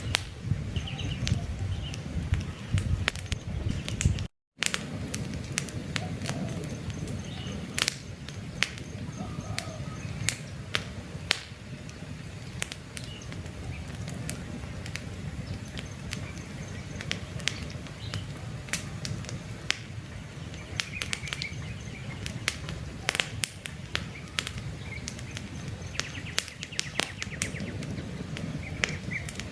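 Wood campfire crackling, with frequent sharp pops and snaps over a low rush of flames, and faint bird chirps now and then. The sound cuts out completely for an instant about four seconds in.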